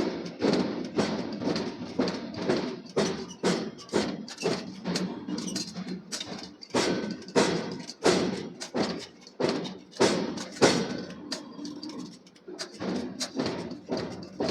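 Forging hammer striking a hot steel billet over and over, about two heavy blows a second, each with a short ring, over a steady machine hum.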